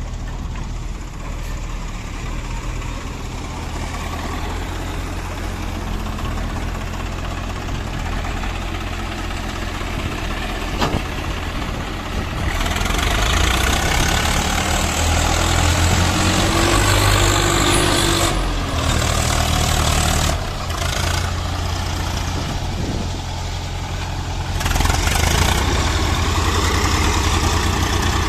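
Swaraj 855 FE tractor's three-cylinder diesel engine running steadily while pulling a fully loaded trolley. About twelve seconds in it grows louder with a rushing hiss, eases off a little after eighteen seconds, and rises again near twenty-five seconds.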